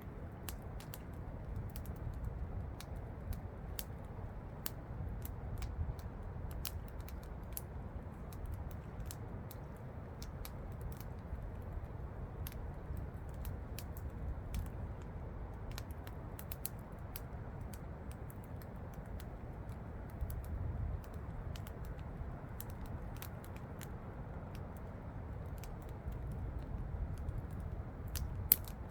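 Campfire crackling with frequent, irregular sharp pops over a steady low rush of falling water, with one louder pop near the end.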